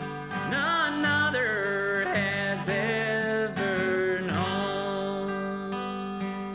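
Acoustic guitar playing steady chords, with a melody line over it that slides and wavers in pitch for the first few seconds, in an instrumental passage of a hymn.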